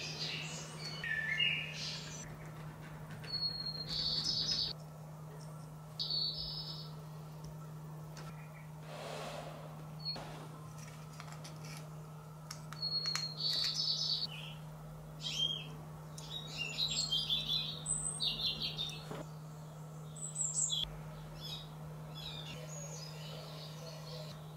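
Small birds chirping and singing in short, repeated phrases every second or two, over a steady low hum.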